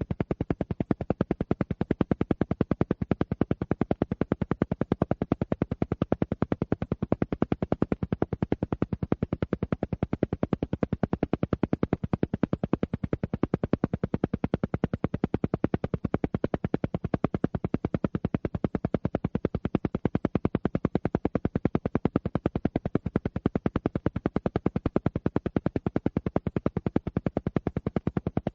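An alpha-wave entrainment track: a steady, rapid, evenly spaced pulsing of many beats a second, without a break.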